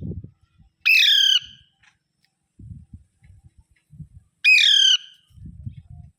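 Rose-ringed (Indian ringneck) parakeet giving two loud, harsh squawks about three and a half seconds apart, with soft low thumps of handling in between.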